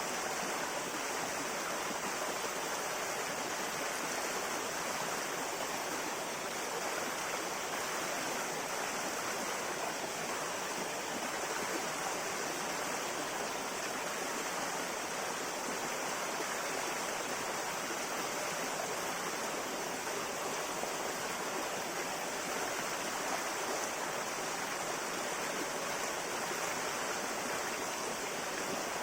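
A river flowing, with a steady, even rush of water over stones and no breaks or changes.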